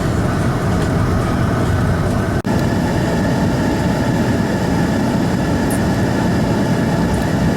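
Vehicle on the road towing a car-hauler trailer: steady engine, tyre and wind noise, broken by a brief dropout about two seconds in.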